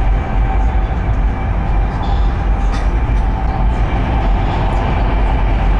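Steady running noise of a Chinese high-speed passenger train at speed, heard from inside the carriage: a constant low rumble with a faint steady whine over it.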